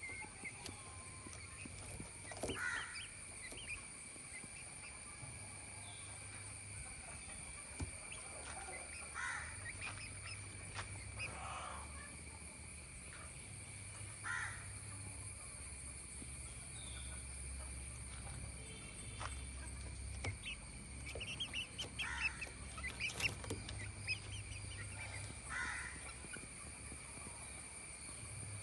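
Short harsh bird calls at scattered intervals, several coming close together a little after twenty seconds, over a steady high-pitched drone and a low hum.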